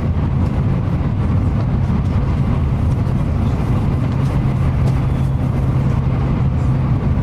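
Shinkansen bullet train running at speed, heard from inside the passenger cabin: a steady low rumble and hum with an even rushing noise over it.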